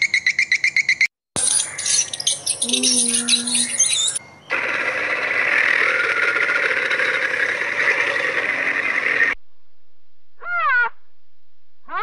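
A run of short animal-sound clips: rapid twittering of barn swallows at the start, then a few seconds of mixed clicks and chatter, then a long noisy hiss. Near the end come two short calls that rise and fall in pitch.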